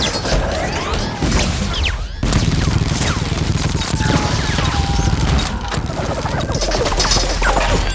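A dense film battle sound mix: volleys of gunfire and crashing impacts with sweeping whines. About two seconds in, a heavy low rumble swells up.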